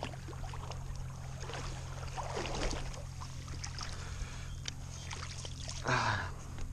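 Steady low rush of running river water, with a few faint clicks and a short louder sound about six seconds in.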